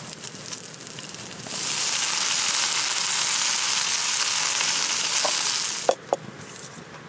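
Food sizzling loudly and steadily as it fries in a hot pan over a campfire, starting about a second and a half in and cutting off abruptly near the end. Light crackling with small pops comes before and after it.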